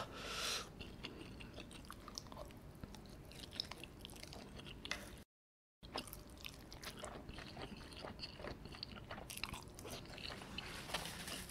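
Close-miked chewing and mouth sounds of a man eating soft dumplings coated in melted mozzarella and spicy Samyang sauce: faint wet smacks and small clicks, broken by a half-second of dead silence about five seconds in.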